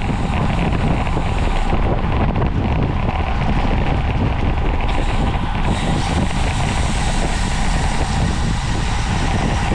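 Steady wind rushing over the microphone of a camera riding on a bicycle at race speed.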